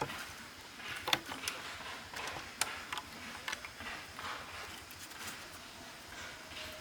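Scattered light clicks and knocks, the sharpest about a second in and again about two and a half seconds in, over a faint rustling.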